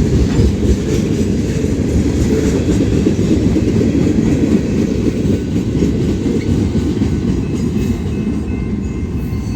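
Train cars rolling past on the rails, a steady loud rumble of wheels on track that eases slightly near the end. Faint thin high-pitched tones, like light wheel squeal, come in near the end.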